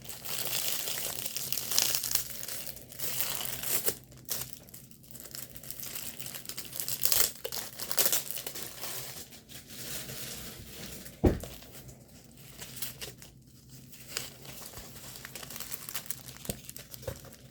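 Packaging of a diamond painting kit crinkling and rustling in irregular bursts as it is handled and opened, with one short thump about eleven seconds in.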